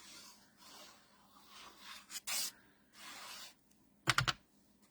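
Adhesive being applied to the back of a cardstock layer: a few short rubbing strokes on paper, then a quick cluster of sharp clicks near the end.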